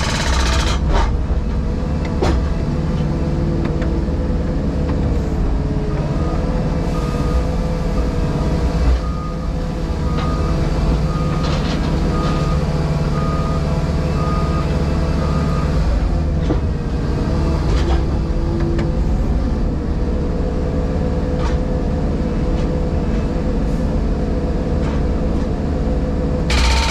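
JCB Pothole Pro's diesel engine and hydraulics running steadily, heard from the cab, with a few scattered knocks. About ten seconds in, a warning alarm beeps a little over once a second for about five seconds.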